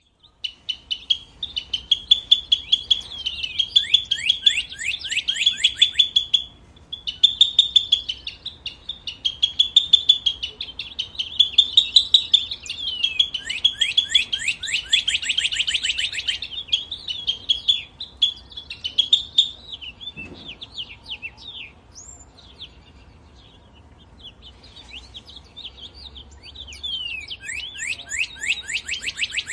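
A small songbird chirping in rapid runs of high, sweeping notes that come in bursts of several per second. The calling thins out about two-thirds of the way through, then picks up again near the end.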